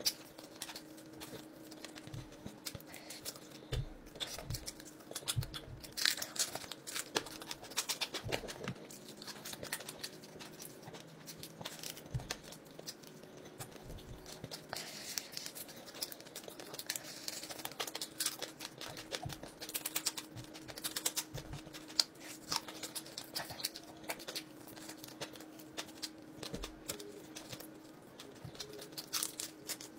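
Close-up eating sounds of fried fish being bitten, chewed and pulled apart by hand: wet chewing and lip-smacking with many small irregular clicks and crackles. A faint steady hum runs underneath.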